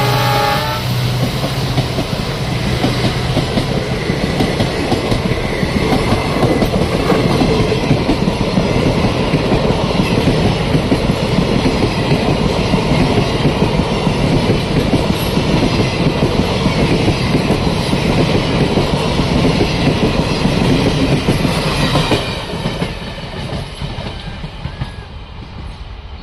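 Passenger coaches of an express train rolling past at speed, wheels clattering over the rail joints, with the tail end of a diesel locomotive horn in the first second. About 22 s in, the last coach goes by and the clatter fades away.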